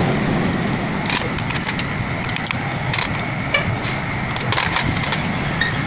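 Scattered light metallic clinks and taps of tools and small engine parts being handled during motorcycle engine assembly, in small clusters, over a steady background hum of street noise.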